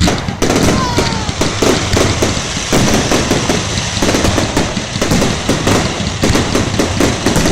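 Fireworks going off in a dense, continuous run of bangs and crackles, with a short whistling glide about a second in.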